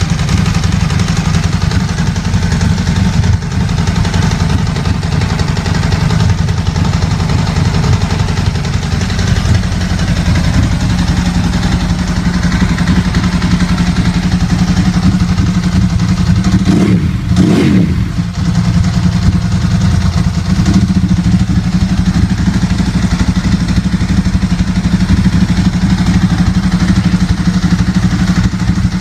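Ducati 916's 90-degree V-twin engine idling steadily, with one brief throttle blip a little past halfway.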